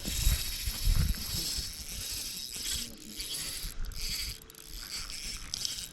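Fishing reel clicking and ratcheting while a hooked trout is played in on light line.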